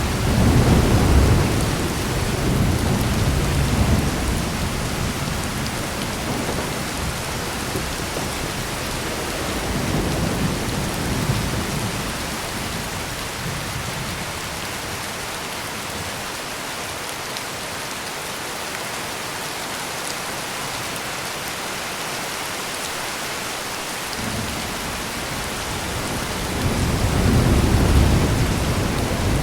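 Heavy rain pouring steadily, with deep thunder rumbling: a strong roll near the start, a fainter one about ten seconds in, and another building near the end.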